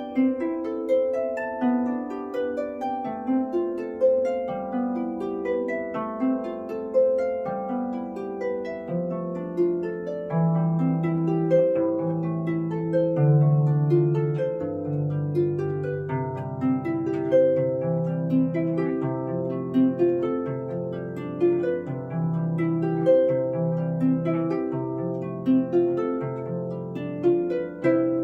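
Solo Celtic harp playing a tune: plucked strings ringing, with a melody over a steadily repeating bass line.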